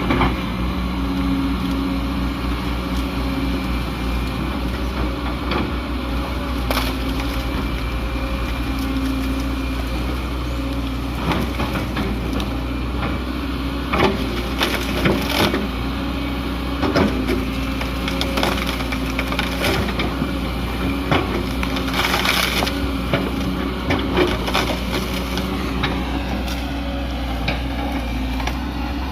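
Excavator's diesel engine running steadily, with repeated sharp cracking and crunching of wood being crushed from about ten seconds in until near the end.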